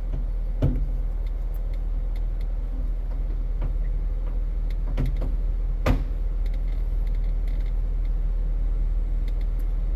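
Jeep engine idling with a steady low rumble, with a few light clicks and a sharper knock about six seconds in.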